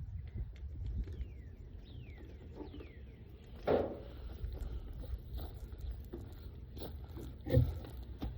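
Outdoor ambience with a steady low rumble, a few short falling whistled bird calls in the first three seconds, and two sharp knocks, one a little before the middle and one near the end.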